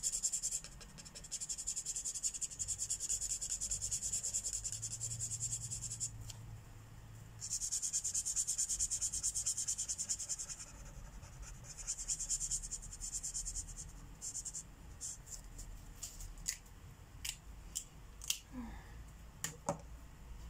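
Felt-tip marker rubbing back and forth across paper, filling in colour in runs of quick scratchy strokes that stop and start a few times. In the last third the colouring gives way to a scatter of short light clicks and taps.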